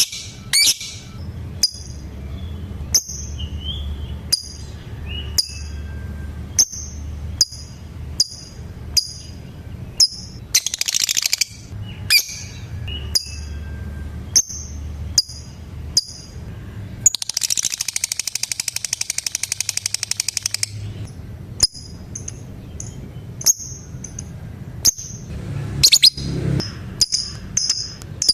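Lovebirds calling in a steady run of short, sharp, high chirps about one and a half a second. This is broken twice by fast, buzzy chattering trills, the long 'ngekek' call: a short burst about ten seconds in and a longer stretch of about four seconds just past the middle. A low hum runs underneath.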